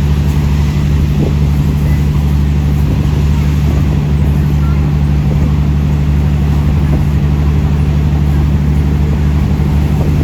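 Diesel train running steadily, heard on board: a loud, even low engine drone with running noise.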